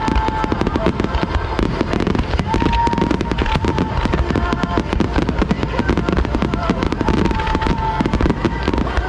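Dense, rapid volley of firework shells bursting and crackling in a starmine finale, many reports a second with no break.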